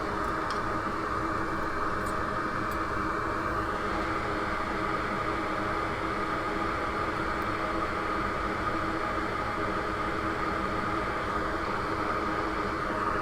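Steady whir of an electric fan running on a soldering bench, with a constant hum and hiss and no change throughout.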